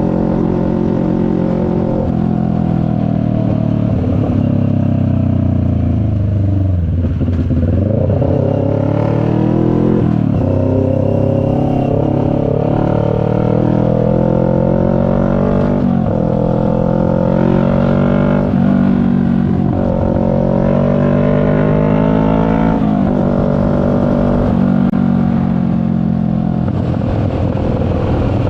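CFMoto 400NK's parallel-twin engine under way: it slows about a quarter of the way in, then accelerates through the gears, its pitch climbing and dropping suddenly at each of several upshifts.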